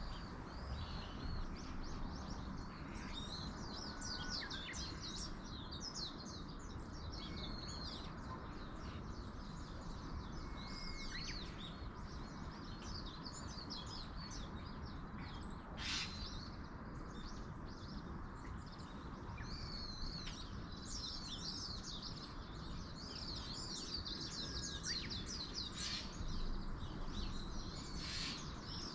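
Small birds chirping and trilling, many short calls one after another, over a steady background hiss.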